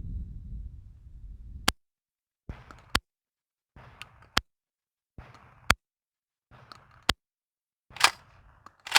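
Shotgun shells being loaded one at a time into a shotgun's magazine. There is handling noise, then a sharp click as each shell is pushed home, about six times, roughly every second and a half.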